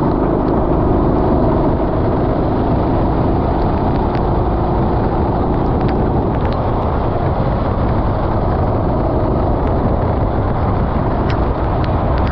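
Racing kart's engine running at speed under a heavy, steady rush of wind and road noise, its note rising and falling slightly, with a few small clicks.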